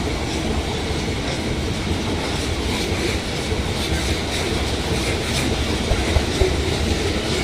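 Loaded iron-ore freight train rolling past: a steady rumble of steel wheels on rail, with repeated clicks as the wheels cross the rail joints.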